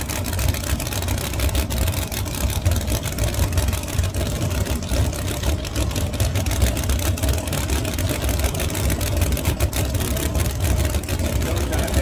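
Drag racing car engines idling, a steady deep rumble with a crackle over it.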